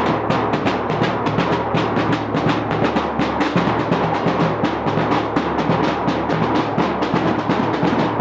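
Drums beating a fast, even rhythm for a dance, with the strikes coming several times a second without a break.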